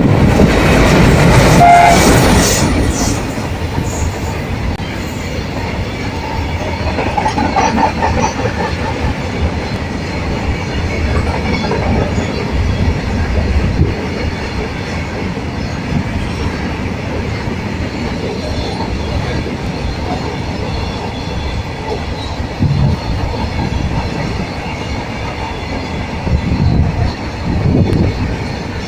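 A diesel-hauled train passing at full speed. It is loudest in the first couple of seconds as the locomotive goes by, with a short horn note. Then comes the long steady rumble and clickety-clack of the wagons' wheels over the rail joints.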